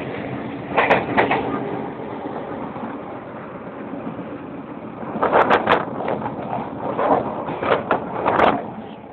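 Passenger train carriage running, a steady rumble heard from inside, with brief louder sounds about a second in and several more from about five seconds in.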